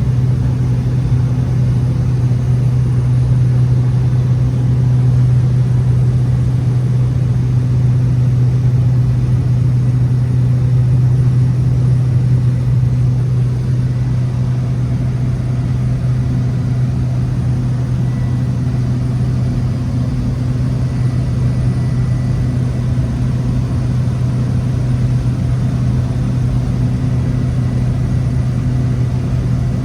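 A Cessna 208 Caravan's single PT6A turboprop and propeller give a loud, steady low drone that holds one pitch throughout, as in climb or cruise after departure.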